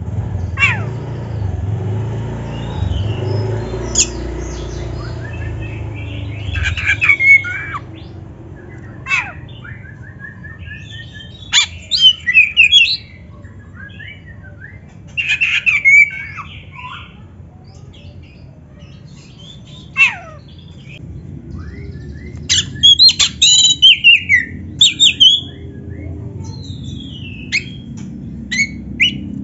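Oriental magpie-robin (kacer) singing in scattered bursts of chirps, warbled whistles and sharp downward-sweeping calls, with short pauses between phrases. A low hum sits underneath, heavier for the first six seconds or so.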